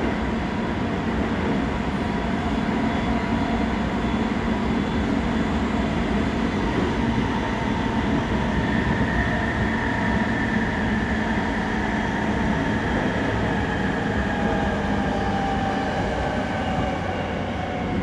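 Running noise inside a JR East E217 series electric motor car: a steady rumble of wheels on rail with the whine of its Mitsubishi IGBT VVVF inverter and traction motors, several held tones drifting slightly in pitch in the second half.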